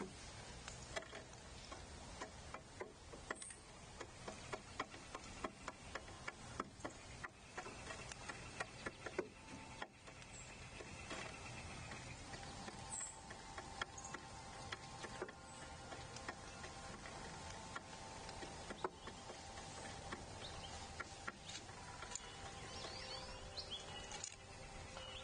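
Faint, irregular pecking and tapping clicks from animals feeding at a seed feeder, thickest in the first ten seconds or so. From about eleven seconds in, faint steady tones sound in the background.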